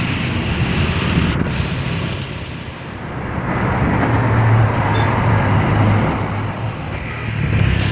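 Scania K410 IB bus's diesel engine running with a steady low hum, easing off about three seconds in and then building again.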